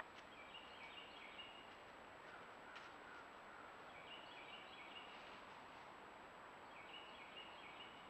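A songbird singing faintly over a trail camera's steady microphone hiss: a short song of quick stepped high notes repeats three times, about three seconds apart, with a single faint click a little under three seconds in.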